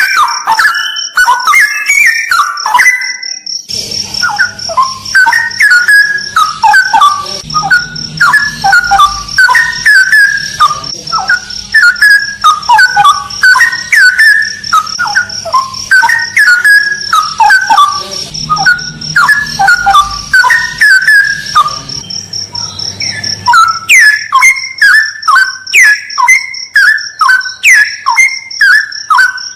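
Straw-headed bulbul singing continuous loud, rich whistled phrases, with a brief break about three and a half seconds in. A steady high, pulsing insect-like buzz runs underneath.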